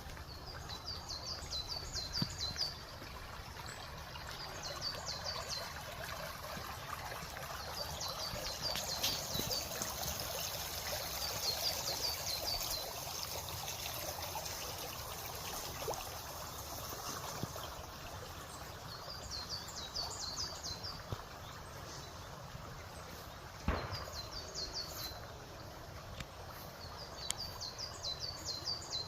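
A songbird repeats a short phrase of rapid high notes every few seconds over the steady sound of trickling water. There is a single sharp knock about three-quarters of the way through.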